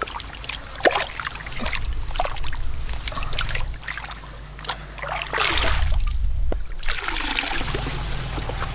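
Water trickling and splashing, with a few sharp knocks and clicks.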